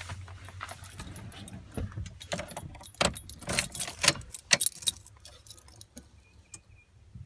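A bunch of keys jangling and clinking, loudest from about two and a half to five seconds in, over a low steady hum, with a faint short beep near the end.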